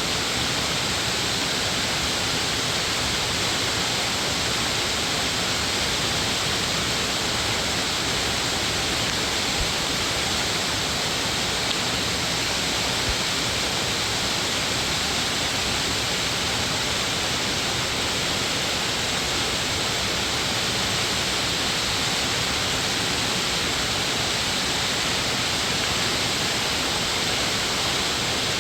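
Steady, unbroken rush of a mountain valley stream's water tumbling over rocks and falls.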